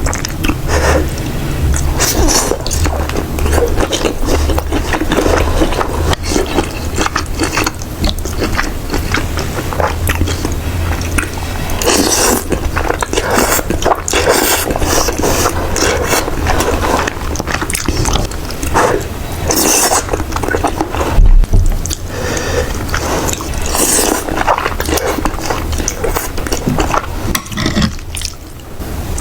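Close-miked eating sounds, with wet chewing, crunching and scraping of food, over background music with a low, pulsing beat.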